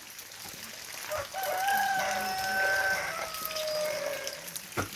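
A rooster crowing once: one long call of about three seconds that drops in pitch at the end.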